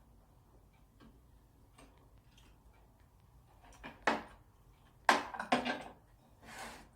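Close-up eating sounds from a ham, cheese, cucumber and lettuce sandwich. A few faint mouth clicks come first, then four short crisp crunches in the second half as the fresh vegetables are chewed.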